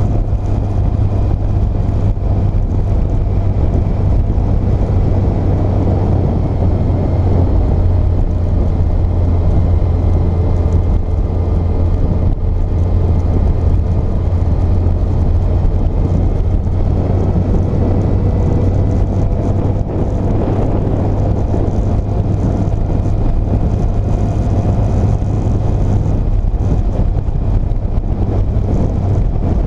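Yamaha FJR1300's inline-four engine running steadily under way, with a constant hum and road noise.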